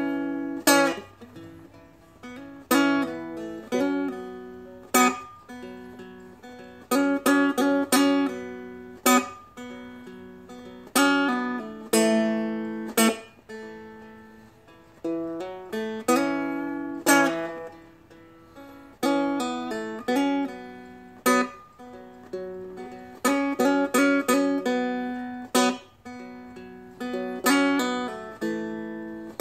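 Seagull Merlin, a small four-string dulcimer-style instrument, plucked in a slow, bluesy repeating riff. The notes fall on its low and middle strings, each struck sharply and left to ring and fade.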